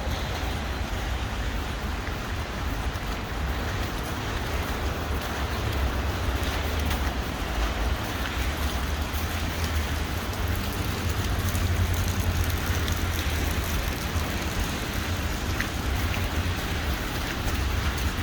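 Steady outdoor city street noise: a constant hiss over a deep low rumble, with no distinct events.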